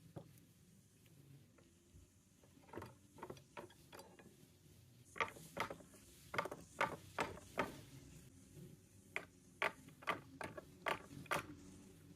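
A series of irregular sharp clicks and knocks of hard objects, in uneven clusters, sparse at first and louder and closer together from about five seconds in.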